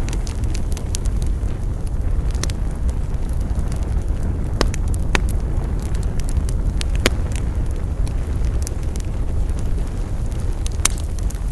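Wood campfire burning, with a steady low rumble under sharp crackles and pops that come at irregular moments.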